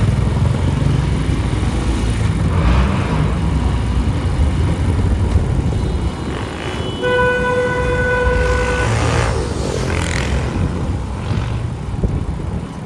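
Motorbike running through city traffic with a steady low engine and road rumble. A vehicle horn sounds once, a steady tone lasting under two seconds, a little past halfway.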